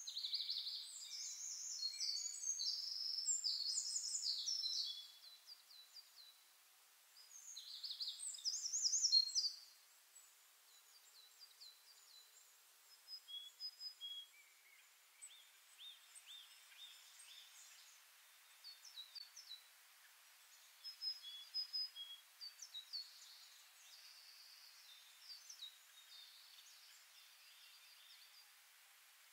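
Birds singing: two bursts of rapid, high twittering song, one in the first five seconds and one around eight to nine seconds, then scattered single chirps.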